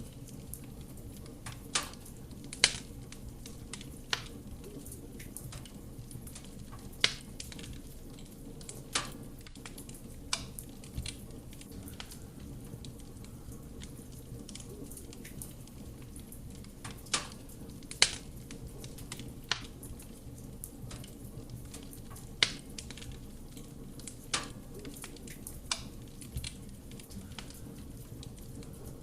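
Wood fire burning in a fireplace: a steady low rush of flame with irregular crackles and pops from the burning wood, a few sharper snaps standing out.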